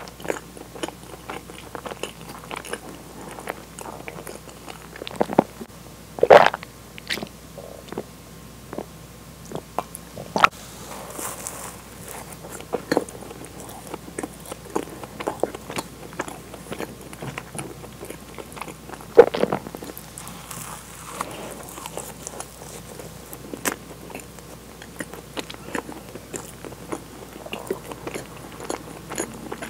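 Close-miked biting and chewing of a soft, sugar-dusted cream-filled donut, with wet mouth clicks and smacks throughout. Two louder moments stand out, about six seconds in and about nineteen seconds in.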